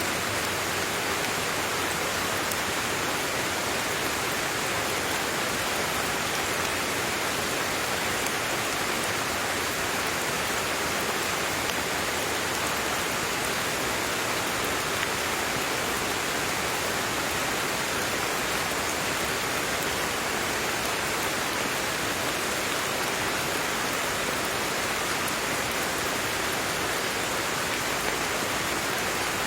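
Steady rain: an even, unchanging hiss of falling rain without distinct drops or thunder.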